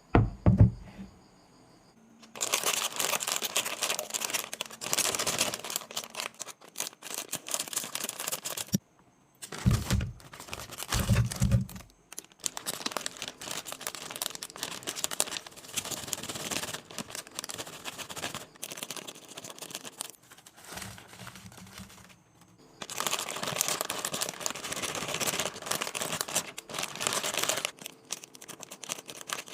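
Plastic snack and candy packaging crinkling and tearing as packets are opened and handled, in long crackly stretches. A few short low thumps come at the start and again around ten and eleven seconds in.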